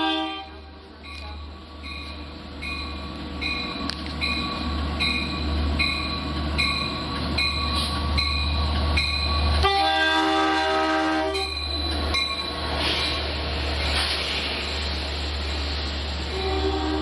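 Long Island Rail Road diesel locomotive arriving with a steady low engine rumble. A bell rings about once every 0.7 s for the first nine seconds or so. The horn sounds one chord-like blast of under two seconds about ten seconds in, and again briefly near the end, with wheel and rail noise swelling in between.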